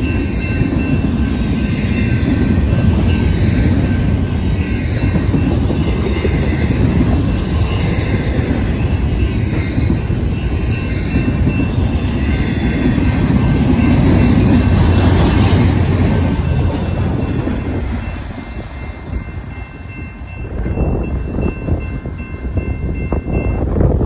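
Double-stack intermodal freight cars rolling past at a grade crossing, their wheels and cars rumbling steadily on the rails. The rumble fades about eighteen seconds in as the tail of the train passes, and wind then buffets the microphone.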